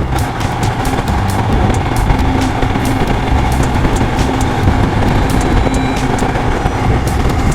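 Royal Enfield Himalayan motorcycle's single-cylinder engine running steadily on the move, with wind rushing over the microphone.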